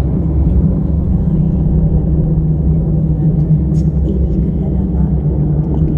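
A loud, steady low drone with a rumbling haze, a sustained meditation 'frequency' tone; a few faint ticks sit above it.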